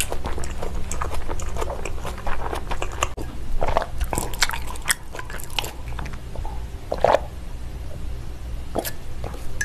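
Close-miked wet mouth sounds of chewing raw salmon sashimi, many small clicks and smacks. Later come a few separate swallows as she drinks calamansi juice from a glass.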